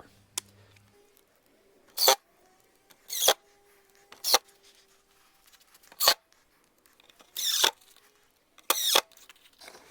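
Screws being driven into a wooden shutter in six short, high-pitched bursts, a second or so apart.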